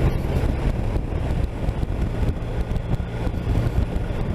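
BMW R 1250 RT's boxer twin engine running steadily while riding, with wind rushing.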